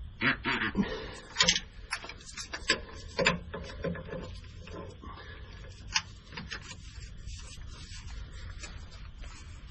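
Irregular metallic clicks and knocks of a wrench being worked on the oil drain plug of a vehicle's oil pan, loosening it. The clicks run for about six seconds, then it goes quieter.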